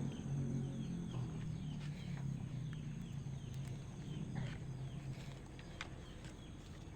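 A small bird chirps over and over, short falling chirps about two or three a second, over a low steady hum, with a few light clicks.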